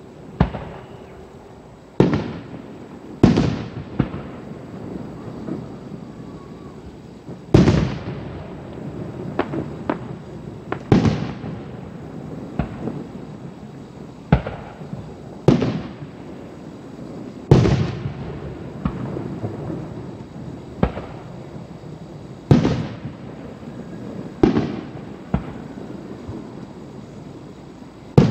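Aerial firework shells bursting one after another: about a dozen sharp booms, irregularly spaced a second to several seconds apart, each trailing off in an echoing rumble.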